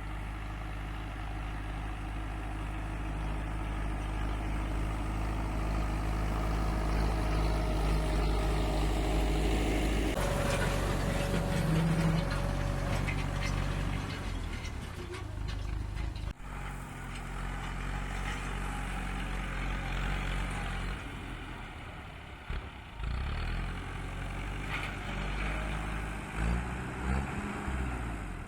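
Tractor engine running steadily, its sound shifting partway through and rising and falling in quick changes near the end.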